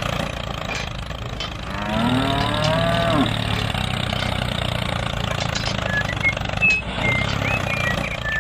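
Steady low engine drone, with a cow mooing once about two seconds in, lasting just over a second. A few short high chirps come near the end.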